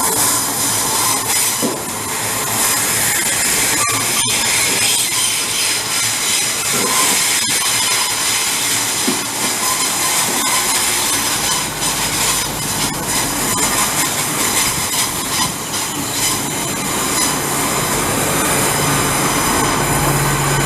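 Train running through a station, with a steady rush of wheel-on-rail noise and a few sharp clicks from the track. A low, steady hum comes in about halfway and grows louder near the end.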